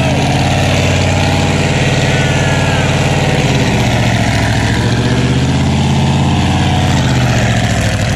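Junkyard truck V8 running on its first start with no turbo fitted, so the exhaust is open at the manifold flanges and there is a major vacuum leak. It runs steadily at a fast idle, dipping somewhat about three and a half seconds in and picking back up near the end. Oil pressure is reading 65–70 psi.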